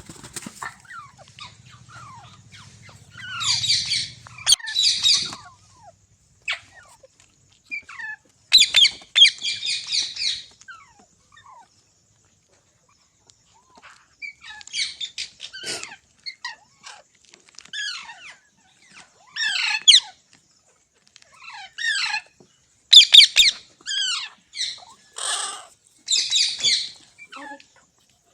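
Pet green parrot calling: loud harsh screeches in short bursts, with softer chirps and whistled glides between them and a pause of a few seconds about midway.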